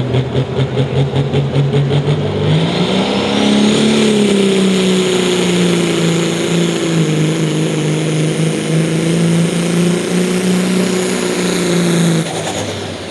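Pro stock semi truck's Mack diesel engine at a pulling event. It runs with a pulsing lope, then about two and a half seconds in it revs up and holds a high, steady pitch under full load as the truck pulls the sled. About a second before the end it backs off and the sound drops away.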